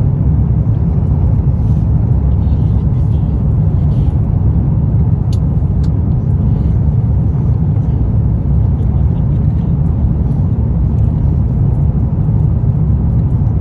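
Steady low rumble of an Airbus A350 cabin in flight on approach: engine and airflow drone heard from inside the cabin. Two faint clicks come about five and six seconds in.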